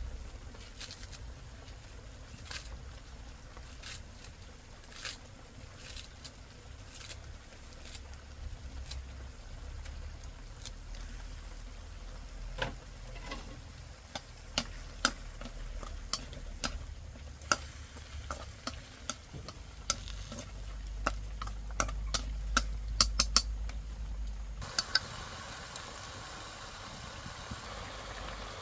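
Irregular light clicks and taps over a low rumble, coming thicker in the second half; near the end the clicks stop and a steady hiss takes over.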